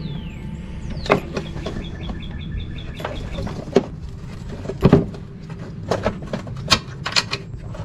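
Ratchet wrench clicking in a quick run as a 3/8 bolt on the mower's shroud is turned, among sharp metal clinks and knocks of tools and parts.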